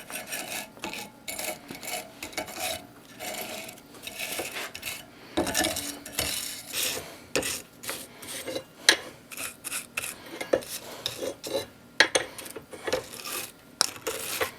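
Irregular light metallic clinks and scraping as steel pieces and tools are handled and rubbed against each other.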